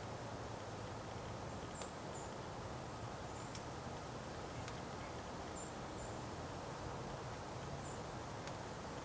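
Small birds giving short, high chirps now and then, about half a dozen, over a steady low background hum.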